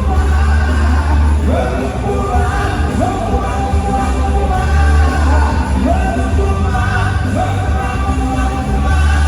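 Loud dance-band music with singing over a heavy, steady bass, the melody sliding up into long held notes again and again.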